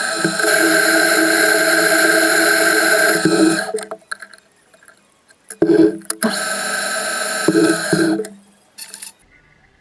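Metal lathe running while turning a steel tube, a steady tone with a hiss over it. It stops a little under four seconds in, comes back briefly, runs again for about two seconds, and gives one short last burst before falling quiet near the end.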